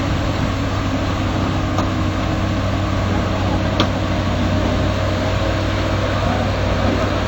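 Excavator's diesel engine running at a steady hum, with two short clicks, about two seconds apart, near the start.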